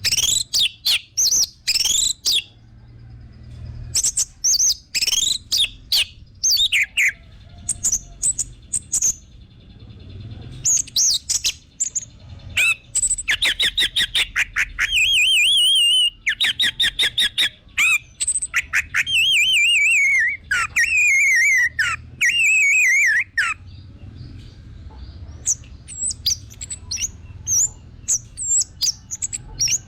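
Orange-headed thrush (anis merah) singing a fast, varied song of sharp chirps and long wavering whistled trills, with short pauses between phrases.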